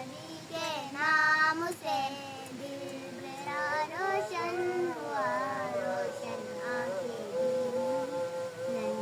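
Young girls' voices chanting a Naat, a devotional song in praise of the Prophet, as a melodic line of long held and gliding notes.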